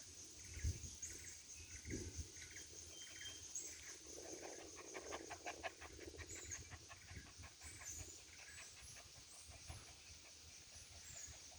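Faint, short, high-pitched animal calls repeating many times.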